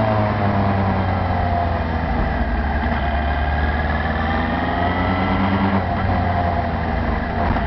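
Small motorcycle engine running while being ridden, heard through a camera mounted on the handlebars. Its pitch drops over the first couple of seconds as the bike slows, then climbs again from about three seconds in, with a change in the note near six seconds.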